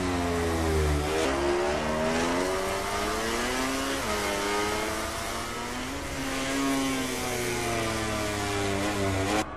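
MotoGP racing motorcycle engines revving hard, the pitch climbing and dropping sharply at gear changes about a second in and again around four seconds, then cutting off abruptly near the end.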